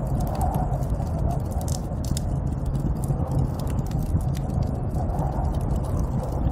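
Snowstorm ambience: a steady low rumble of wind with many small, irregular crackles over it.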